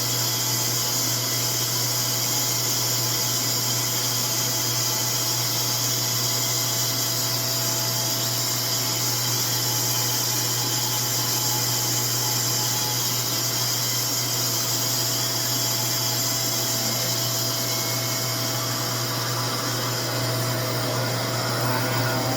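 RevAir reverse-air hair dryer running without a break, its motor and fan pulling a section of hair into the wand by suction: a steady low hum under a strong airy hiss.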